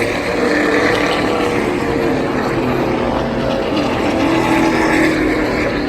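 NASCAR Cup Series stock cars' V8 engines running on the track, a steady engine drone over a thick wash of noise.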